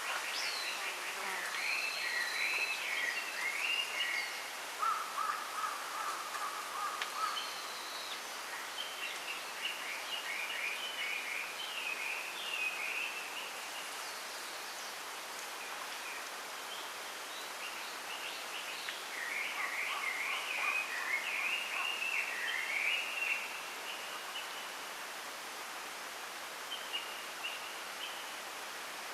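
Small songbirds singing in short warbled phrases, in three main bursts about ten seconds apart, over a steady hiss of wind rustling a bamboo grove.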